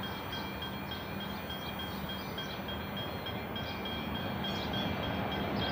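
Suburban train approaching along the line, a steady rumble of wheels on rail that grows slowly louder as it nears.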